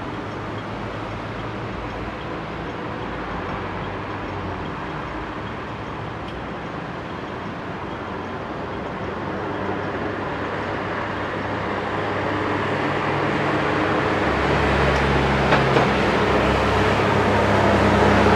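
MTR Q-Train electric metro train (set A769/A770) running, the rumble of its running gear growing steadily louder through the second half. Low humming tones rise and change in steps near the end.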